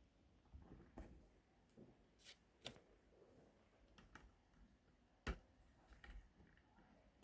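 Faint, scattered clicks and light rustling of plastic Lego pieces being handled and pressed together, with the sharpest click about five seconds in.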